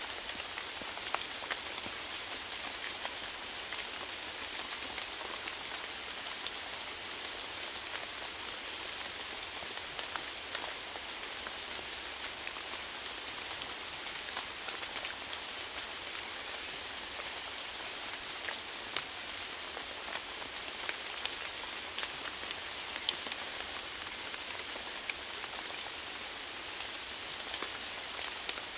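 Steady rainfall pattering on a surface, an even hiss dotted with many separate drop ticks.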